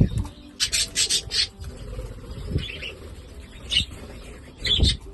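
Budgerigars chirping in short high bursts: a quick run of four chirps about a second in, then single calls, with a few dull low thumps among them.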